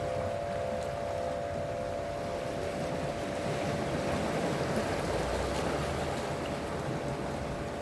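Sea waves washing steadily on the shore, with a steady hum of a few close tones that fades out about halfway through.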